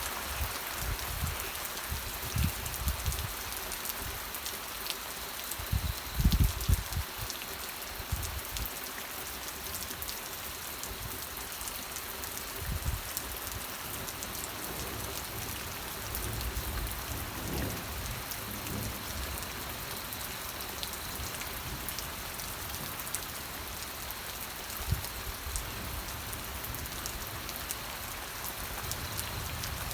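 Steady rain falling on surfaces, a dense hiss peppered with individual drop ticks. A few low thumps come about six seconds in.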